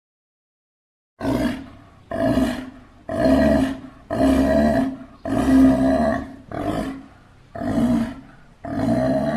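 Sea lion barking: a series of about eight deep, hoarse calls roughly a second apart, starting about a second in. Real seal and sea lion recordings serve here as the call of the extinct Japanese sea lion.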